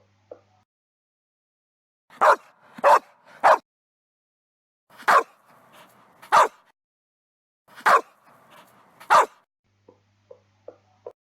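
A dog barking seven times: three quick barks, a pause, two more, another pause, then two more. A few faint clicks come just before the barking and again after it.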